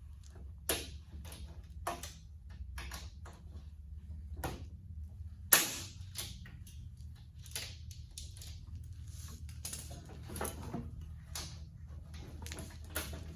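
Hand tools working on metal tractor engine parts: irregular small clicks and light taps, with one sharper knock about five and a half seconds in, over a steady low hum.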